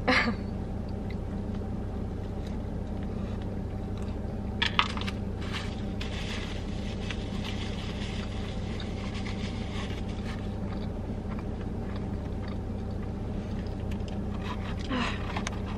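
Biting into a hot honey chicken sandwich and chewing it, with crunching that is strongest about five seconds in and crackly through the middle, over a steady low hum.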